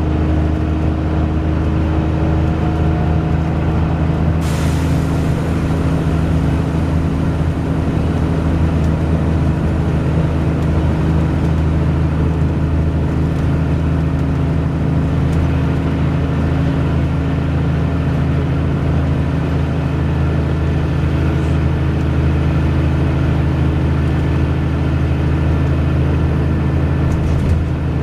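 Wright Pulsar Gemini 2 single-deck bus running steadily, its engine a low drone, with a short air hiss about four seconds in.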